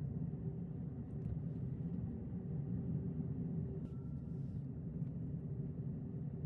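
Cabin noise inside a Hyundai Santa Fe Hybrid on the move: a steady low road and tyre rumble with a faint steady hum, and a couple of faint ticks.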